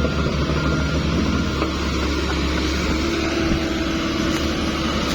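Heavy diesel machinery engine running steadily at a low, even speed.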